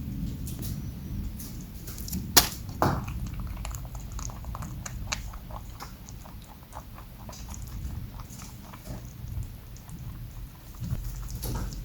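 Rabbits chewing pineapple: a string of small, irregular crunching clicks, with a sharp louder knock about two and a half seconds in.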